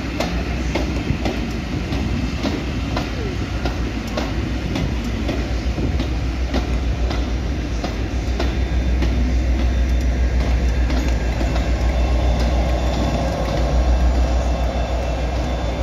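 Passenger coaches rolling past, their wheels clicking over rail joints above a steady rumble. Over the second half a diesel locomotive at the rear of the train comes level, and its engine adds a steady low drone that grows louder toward the end.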